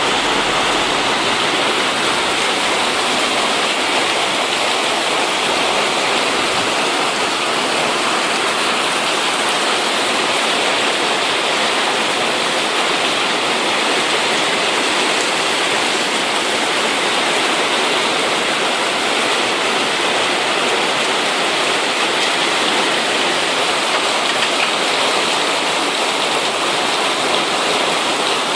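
Heavy rainstorm: a steady, loud downpour hissing without let-up.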